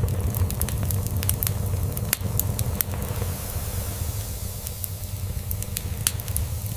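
Log fire crackling, with sharp pops scattered throughout, over a steady low rumble of cat purring.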